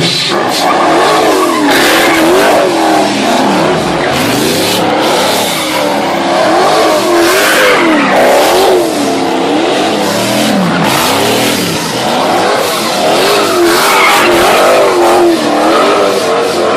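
Muscle car engine revving up and down over and over, about once a second, while the tyres squeal under wheelspin.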